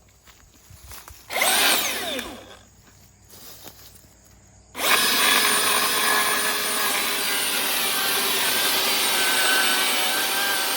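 Milwaukee M18 FUEL 20-inch dual-battery electric chainsaw revved briefly about a second in and winding down. From about five seconds in it runs steadily with its chain cutting into wood.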